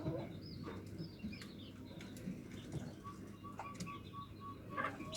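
Zebra dove cooing mixed with the short, high chirps of small birds, and a thin steady tone running through the second half.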